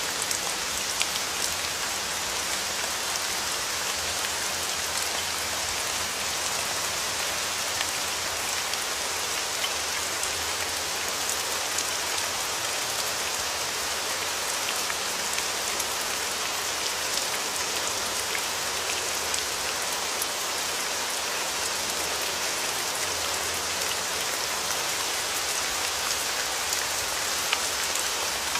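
Steady rain falling, an even hiss dotted with many small drop ticks, with no thunder.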